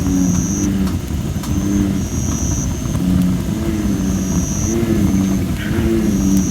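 American bullfrogs calling, deep overlapping croaks repeating over and over. A high thin whistle cuts in and out, with a few faint crackles from a campfire of damp red robin (Photinia) wood.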